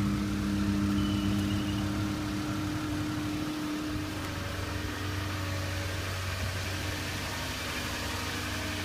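2005 Toyota Tundra engine idling steadily shortly after a cold start in sub-zero cold, growing a little quieter about four seconds in.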